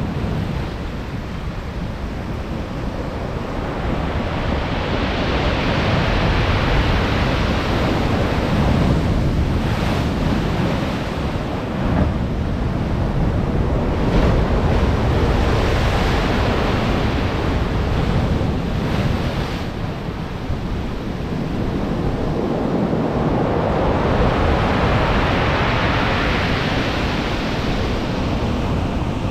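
Stormy sea surf: heavy waves breaking and washing ashore, surging up and falling back about every ten seconds, with wind rumbling on the microphone.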